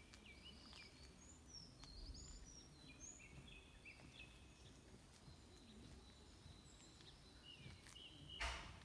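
Several small birds calling in trees: scattered short chirps and whistled notes, some sliding down in pitch, over a faint low outdoor hum. Just before the end comes a brief, louder burst of rustling noise.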